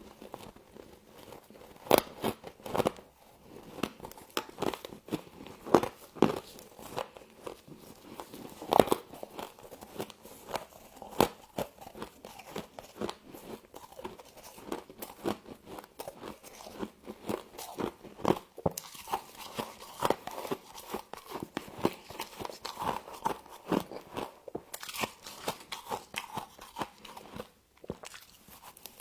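Close-miked biting and chewing of frost, a dense run of irregular sharp crunches.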